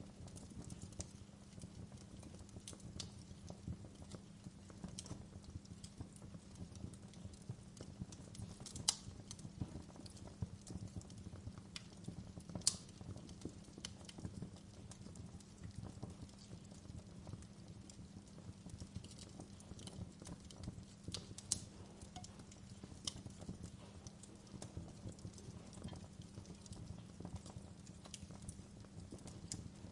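Wood fire burning: a steady low crackle with scattered sharp pops and snaps of the burning wood, the loudest pops about nine and thirteen seconds in.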